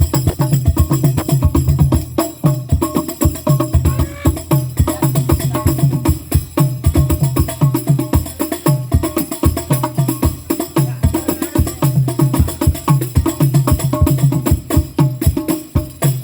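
Hadrah percussion ensemble of frame drums, a deep bass drum and a tambourine playing a fast, steady rhythm, with no singing, as in a sound check.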